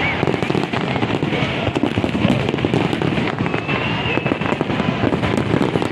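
Aerial fireworks going off in a rapid, continuous string of bangs and crackles, with a crowd's voices underneath.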